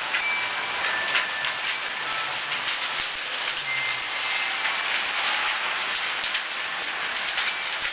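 Heavy rain pouring down in a severe thunderstorm, a dense steady hiss with many sharp ticks of drops striking nearby surfaces.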